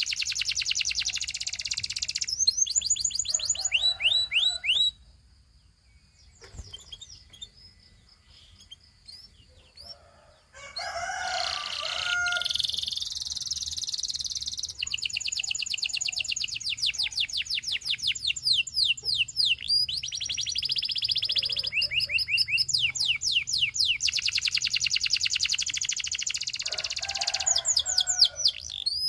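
Domestic canary singing in long fast trills of rapidly repeated sweeping notes, high and bright. The song breaks off for a few seconds about a fifth of the way in, then resumes with more rolling trills.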